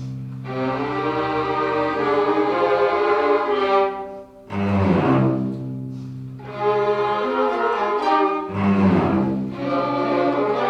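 Chamber orchestra playing, its strings to the fore: cellos and double basses hold long low notes under sustained chords. New phrases begin with fresh low attacks about four and a half and eight and a half seconds in.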